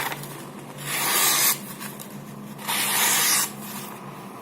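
Two rubbing, scraping strokes, each a bit under a second long, about two seconds apart.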